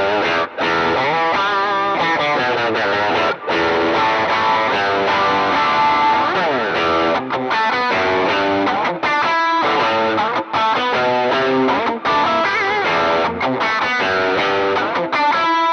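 Electric guitar played through a Line 6 digital amp modeler set to a Vox AC30 amp model with a speaker-cabinet impulse response, giving a driven tone. The playing is melodic lead phrasing with string bends and vibrato, and a few short breaks between phrases.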